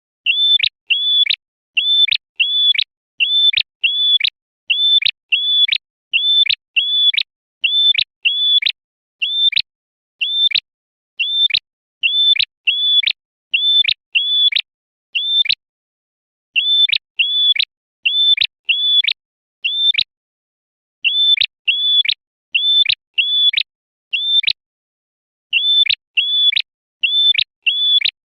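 Male prenjak merah calling: a long series of short, clear, high chirps repeated about twice a second, broken by a few short pauses.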